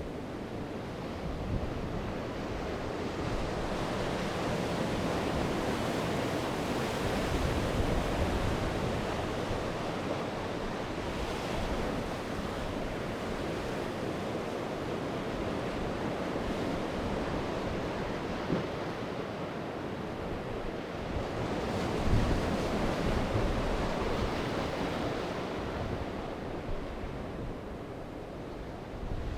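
Sea waves breaking and washing on the shore, swelling and ebbing in slow surges, with wind buffeting the microphone.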